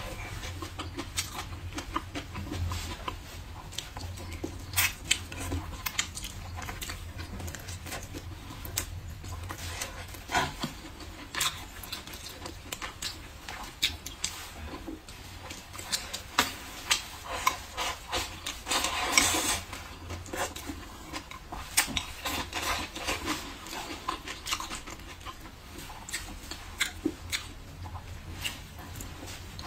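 Close-miked eating of braised pork ribs: wet chewing, biting and mouth smacks in many short clicks, with light taps of wooden chopsticks against the bowl. About two-thirds of the way through comes one longer, louder noisy rasp. A low hum runs underneath.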